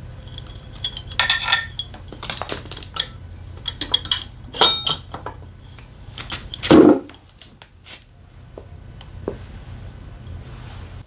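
Metal tools and engine parts clinking and clattering against each other and a hard surface: a run of sharp clinks, with one heavier knock about two-thirds of the way in, over a steady low hum.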